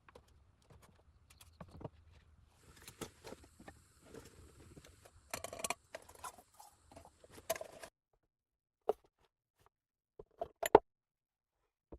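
Scattered knocks and clicks of objects being handled, with a stretch of rustling and scraping in the middle and a single sharp knock near the end.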